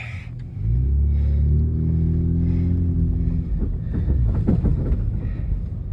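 A vehicle engine running with a steady low drone as heard from inside the cab while driving. The drone comes in about half a second in, followed by a few light knocks.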